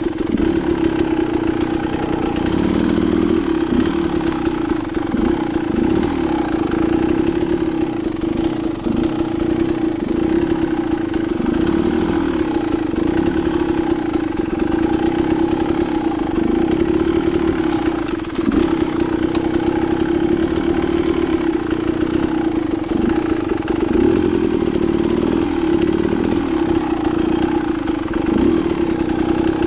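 Dirt bike engine running at a fairly steady, low pitch as it is ridden along a rocky single-track trail, with a brief drop in the engine note a little past the middle.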